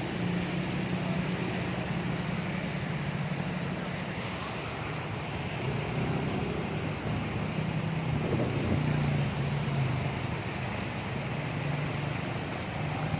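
Steady rush of high floodwater with wind on the microphone, under a low engine hum that rises briefly about eight seconds in.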